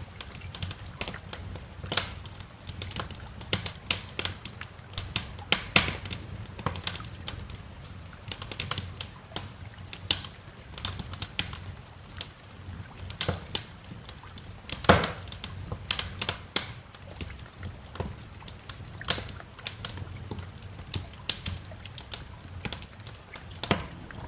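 Wood fire crackling in a fireplace: irregular sharp pops and snaps, several a second, a few louder ones standing out, over a steady low rumble.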